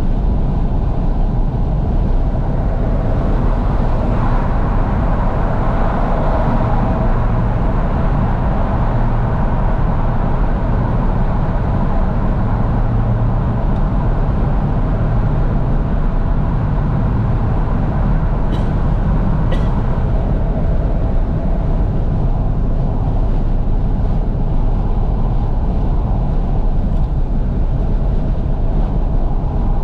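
Steady road noise inside a moving Fiat 500S with its windows wide open: a low rumble of engine, tyres and wind coming in through the windows. There are two brief clicks a little past halfway.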